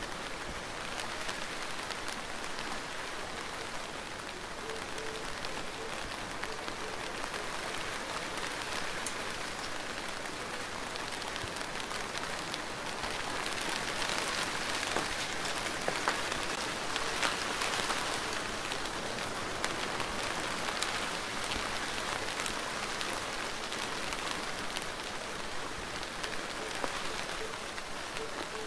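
Steady rain falling, with individual drops ticking through the even hiss; it grows a little heavier about halfway through, then settles back.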